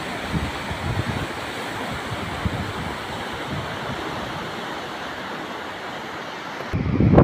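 Steady rush of flowing water with some gusty wind rumble on the microphone. Near the end it cuts abruptly to louder wind buffeting the microphone.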